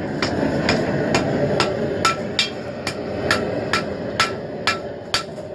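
Hand hammer striking hot steel on an anvil in steady, evenly spaced blows, about two a second, each with a short metallic ring, while the smith draws the taper into a knife blade. A steady rushing noise runs underneath.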